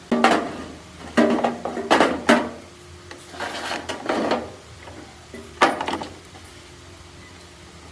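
Hard objects being handled: a sharp knock at the start, a run of clattering knocks between about one and two and a half seconds, a scraping stretch around four seconds, and one more knock past five and a half seconds.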